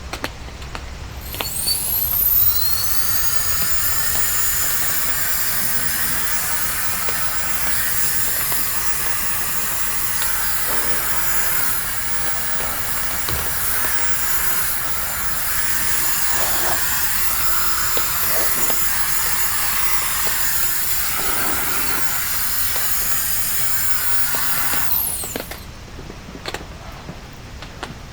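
Small portable electric air blower running. Its motor spins up with a rising whine about a second in, blows steadily with a hiss, then winds down and stops near the end.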